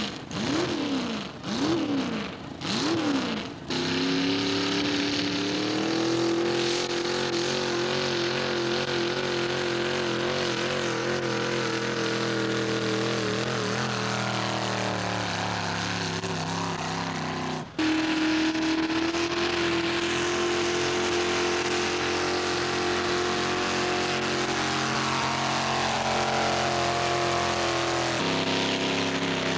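Mini-modified pulling tractor's engine revved three times in quick blips, then held at high revs for a long steady run under load. The sound drops out for an instant about two-thirds through, and the engine note climbs slightly near the end.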